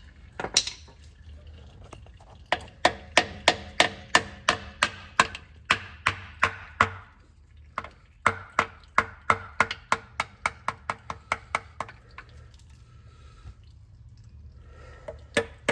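Hammer striking metal in two runs of quick, even blows, about three a second, each blow ringing briefly.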